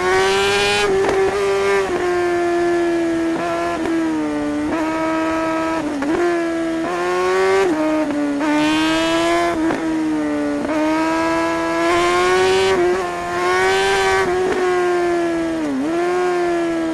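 Suzuki GSR 600 K8's inline-four engine under way, its pitch climbing steadily under throttle and then dropping sharply several times as the throttle closes or a gear changes, before pulling up again.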